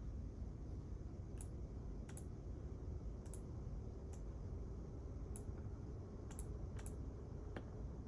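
Steady low hum of a quiet library reading room with about eight small, sharp clicks scattered irregularly through it.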